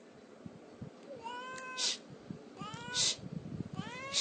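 A domestic cat meowing three times, short calls rising in pitch about a second apart.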